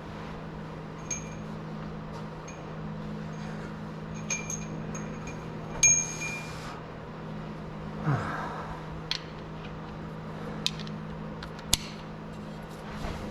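Hand tools and metal engine parts clinking during an engine teardown: scattered light clinks, several with a brief high ring, and a few sharper ticks near the end, over a steady low hum.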